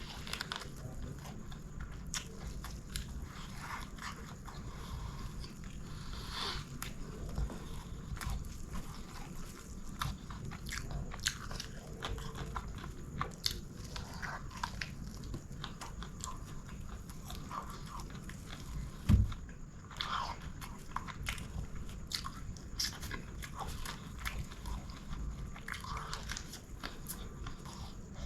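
Close-up chewing and biting of chicken biryani, with many small wet mouth clicks throughout. A single dull thump about two-thirds of the way through is the loudest sound.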